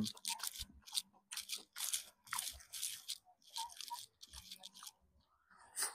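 A person chewing a mouthful of fried chicken burger close to a clip-on microphone, with irregular crunching chews. It opens with a short 'mm' of approval.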